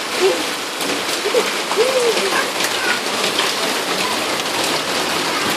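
Steady rain falling and splashing on surfaces, with a few brief faint voice-like sounds in the first two seconds.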